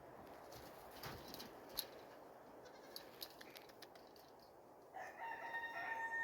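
A rooster crows near the end, one long held call. Before it there are a few faint clicks over low background noise.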